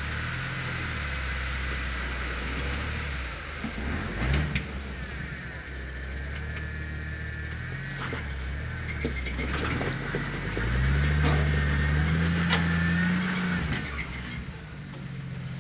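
A motor engine running, its pitch rising briefly about four seconds in and again for a few seconds near the end, with scattered clicks.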